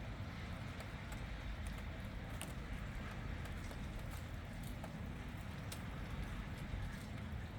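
Wind rumbling on the microphone during a storm, with light irregular taps scattered throughout.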